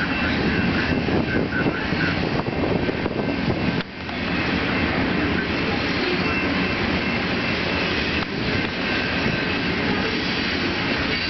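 A train rolling past close by, its cars running over the rails in a steady, loud rumble, with a brief drop about four seconds in.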